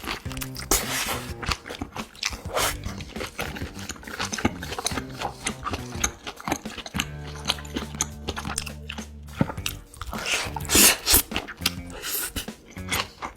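A person chewing and biting food close to the microphone: many short, wet, crunchy clicks, with a few louder bites. Background music runs underneath, with low sustained notes around the middle.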